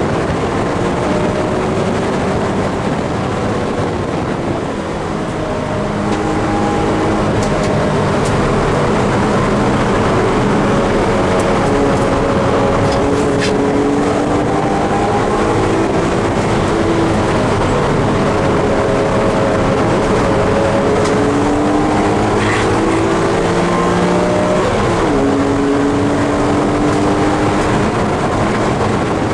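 BMW E46 M3's S54 straight-six engine pulling hard at high revs from inside the cabin. The pitch rises under acceleration and falls as the driver lifts for corners, with an upshift from third to fourth. Tyre and wind noise lie underneath.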